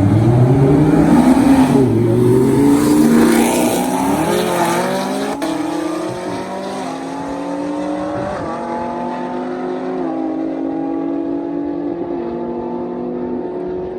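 Supercharged V8 of a Camaro ZL1 at wide-open throttle in a roll race, loudest in the first few seconds. The engine note climbs in pitch and drops back at each upshift, about five times.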